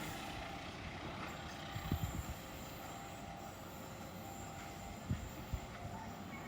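Passenger train rumbling along the track, with a few low thuds about two seconds in and twice more near the end.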